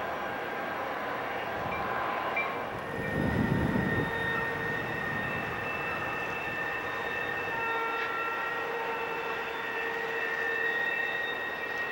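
Diesel locomotives hauling a long train of passenger cars, running in the distance: a steady rumble of engines and rolling cars, with a louder low surge about three seconds in and thin steady high tones over it from then on.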